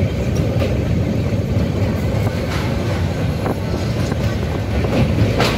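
Train running across a steel girder bridge: a steady low rumble of wheels on rails, with irregular clicks and clanks, the sharpest about five seconds in.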